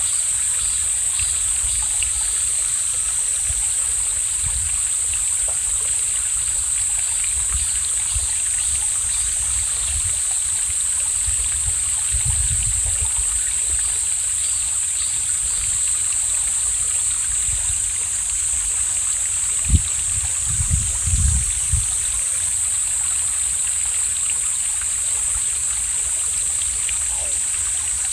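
Mountain valley stream running and trickling steadily. A few brief low bumps come about two-thirds of the way through.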